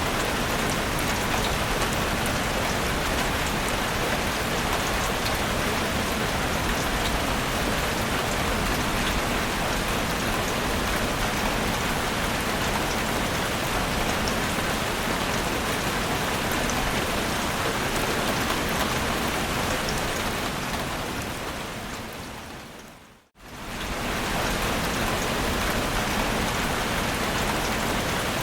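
Heavy rain falling steadily, a dense even hiss of drops. About three quarters of the way through it fades out to silence for a moment and quickly fades back in.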